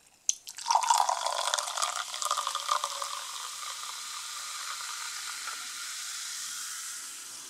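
Carbonated energy drink poured from a can into a glass after a short click, followed by a steady fizzing hiss as the bubbles rise and pop.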